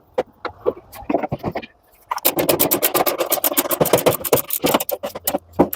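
Scattered clicks, then from about two seconds in a dense run of rapid clicking and scraping: hand work on the Hoover tumble dryer's plastic and metal parts while the blower is being taken off.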